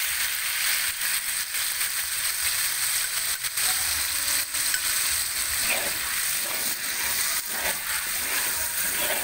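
Minced garlic and shallots sizzling and bubbling in hot oil in a wok with a fish-sauce glaze just added: a steady frying hiss, with short scrapes as a spatula stirs it now and then.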